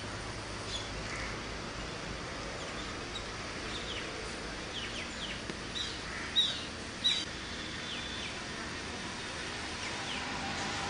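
Birds calling: a string of short, high chirps that slide downward in pitch, the two loudest about six and seven seconds in, over a steady outdoor hiss.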